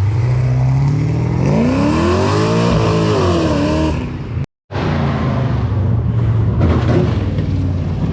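Car engine idling with a deep rumble, revved up once and let back down over about two seconds. After a brief break it settles back to a steady idle.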